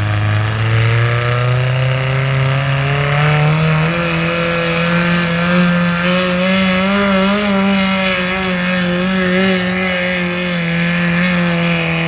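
Garden tractor engine running at full throttle under load while pulling a weighted sled: its pitch climbs over the first four seconds, then holds at high revs with a slight wavering.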